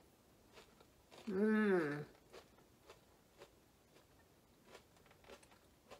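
A person chewing a crunchy breaded onion ring: faint scattered crunches, with a short hum from the eater about a second in.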